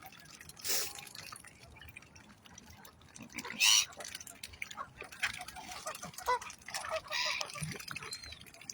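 Geese and other waterfowl on a lake calling now and then, with water splashing; a loud sudden burst about three and a half seconds in.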